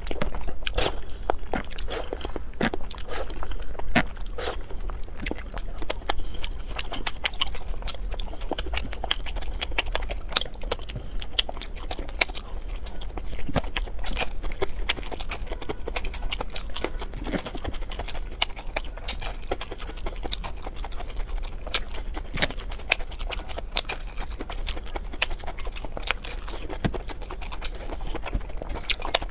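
Close-miked eating: steady chewing and crunching of food, with many sharp mouth clicks and bites, including crisp bites into fried breaded rings.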